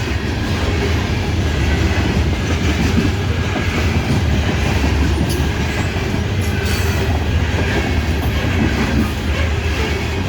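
Loaded coal hopper cars of a long freight train rolling past steadily: a continuous low rumble of steel wheels on rail with some clickety-clack.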